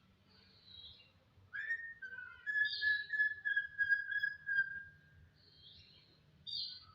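Jalak (starling) singing: a long, clear whistled note held for about three seconds, with shorter chattering notes higher up, and a quick burst of calls near the end.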